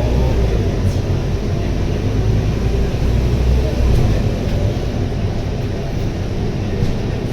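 Scania K230UB city bus under way, its 9.3-litre Scania DC9 diesel engine running with road noise, heard from inside the cabin: a steady low rumble.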